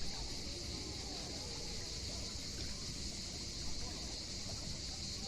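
Steady outdoor summer ambience: an even, high-pitched hiss, with faint voices in the distance.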